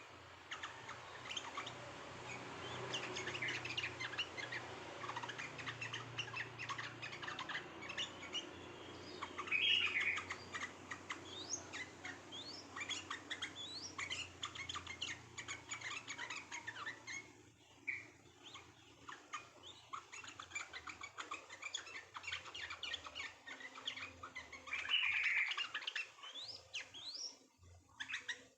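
Small songbirds chirping in a dense, rapid stream of overlapping short calls and quick rising notes. There are louder bursts about ten seconds in and again near the end.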